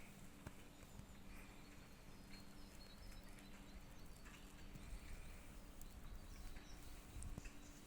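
Near silence: faint outdoor ambience with a low steady hum and a few soft scattered ticks.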